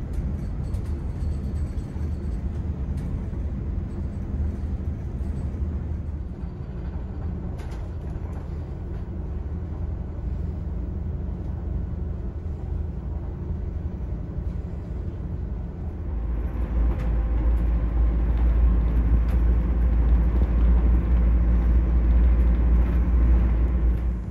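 Running noise inside an ÖBB Railjet passenger coach travelling at speed: a steady low rumble of the wheels and bogies on the rails. The rumble grows louder and fuller about two thirds of the way in.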